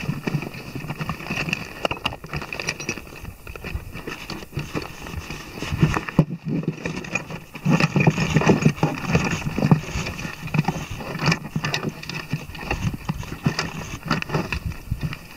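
Tools and touring gear being handled and packed away, with irregular clicks, knocks and rustling. The handling is busiest a little past the middle.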